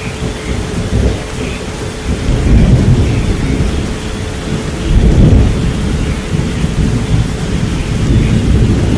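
Steady rain with thunder rumbling low, swelling twice, about two and a half and five seconds in. Under the rain runs a steady pure tone near 432 Hz that fades after about five seconds.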